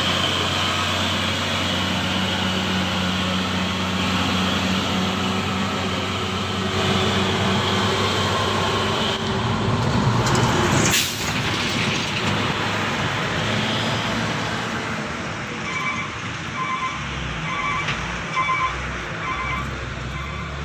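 Heavy diesel trucks running past on a hill road, their engines working steadily under load. Air brakes give a short hiss about halfway through, and a series of short, evenly spaced beeps sounds near the end.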